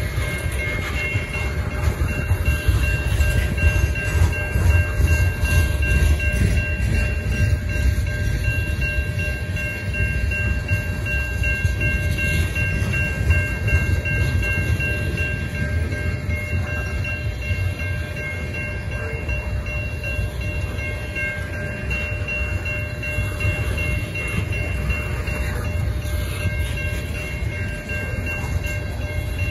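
Freight train of tank cars rolling steadily past at a grade crossing: a continuous low rumble of wheels on rail. Above it rings the crossing signal's bell, a few steady high tones.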